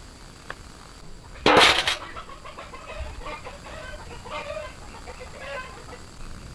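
An animal calling in a run of short, repeated notes, after a loud half-second burst of noise about a second and a half in.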